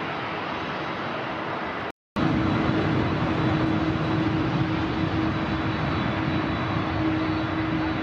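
Jet airliner engine noise, steady. About two seconds in it cuts out abruptly for a moment, then comes back louder, with a steady droning hum and a faint high whine over the rushing noise.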